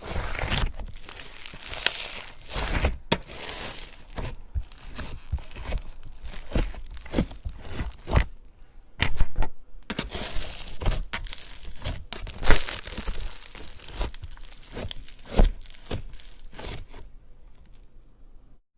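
Slime being squeezed, poked and stretched by hands: a continuous run of sticky crackling, crunching and tearing noises with a few louder pops. It dies away about a second before the end.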